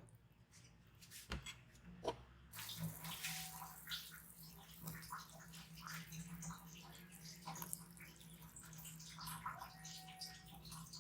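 Water sounds in a kitchen, with many small clicks and knocks, starting about two and a half seconds in over a low steady hum.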